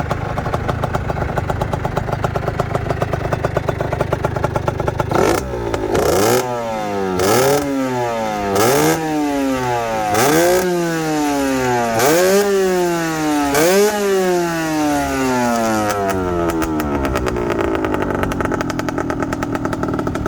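Derestricted Aprilia RS50's single-cylinder two-stroke engine idling, then blipped hard about six times from around five seconds in, each rev rising sharply and dropping away, before it settles back to idle.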